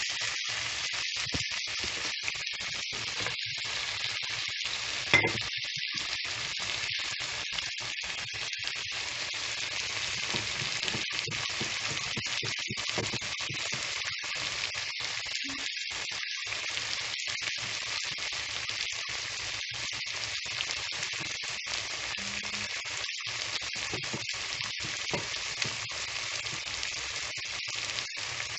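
Hilsa fish roe, onions and chopped potatoes sizzling in hot oil in a pan as they are sautéed: a steady hiss, with one sharp click about five seconds in.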